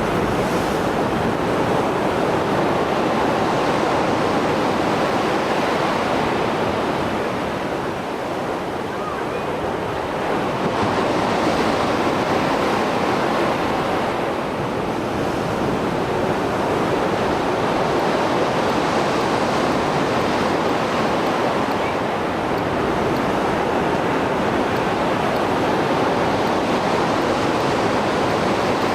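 Mediterranean Sea waves breaking and washing on the shore after a storm: a continuous rushing surf that swells and eases every few seconds.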